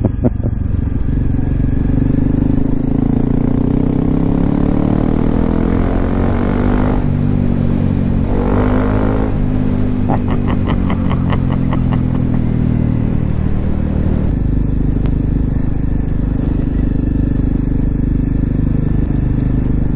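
Honda CRF250L's single-cylinder thumper engine, breathing through an aftermarket FMF Q4 exhaust, pulling along a lane. Its pitch climbs and drops with throttle and gear changes, then settles to steadier running for the last few seconds.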